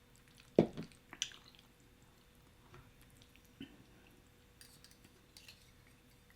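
Close-up eating sounds of shrimp Alfredo: a sharp knock just over half a second in, then a higher clink, with soft chewing and faint clicks of a utensil against the dish.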